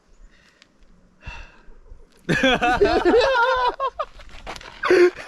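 A person's high, wavering wordless vocal sound starting about two seconds in and lasting about a second and a half, with a short vocal burst near the end.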